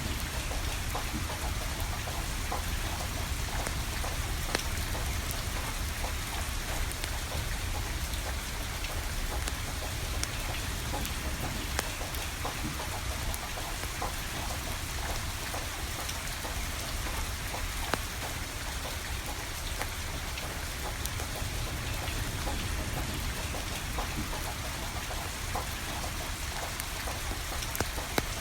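Steady rain falling, with scattered sharp pops and crackles from a wood fire burning.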